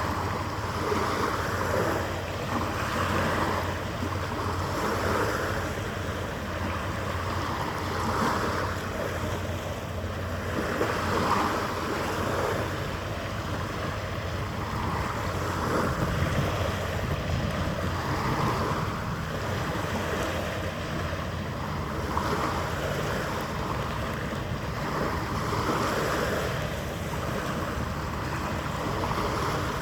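Harbour water lapping, in soft swells every couple of seconds, over wind rumbling on the microphone and a steady low hum.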